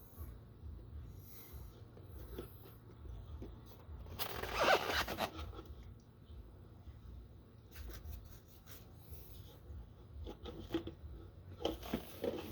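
Plastic quart bottle of motorcycle oil being handled and tipped as it is poured through a funnel into the engine: a scratchy plastic scrape about four seconds in and scattered light clicks and knocks later, over a low steady hum.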